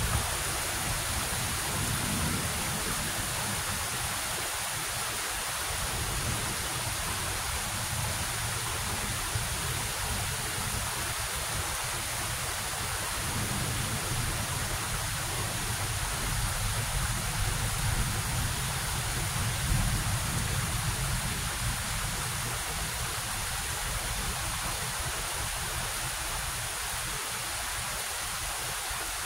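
Heavy rain falling steadily in a thunderstorm, with low rumbles of thunder swelling and fading beneath it, most strongly around the middle.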